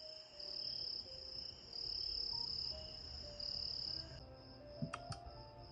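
Recorded cricket chirping played from a relaxing-sounds app: a high trill pulsing in long stretches over soft, slow musical notes. The cricket sound drops back about four seconds in, and two sharp clicks come near the end.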